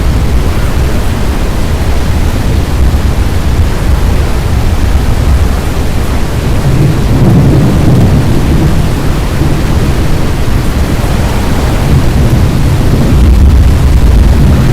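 Loud, steady rumbling noise, heaviest in the low end, swelling about seven seconds in and again near the end.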